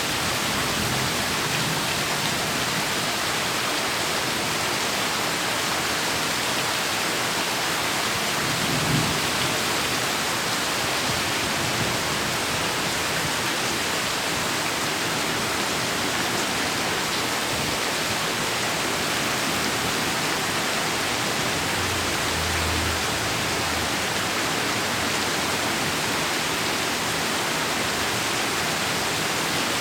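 Heavy rain pouring steadily, a dense even hiss. Two brief low rumbles of thunder rise under it, one about a third of the way in and another about three-quarters through.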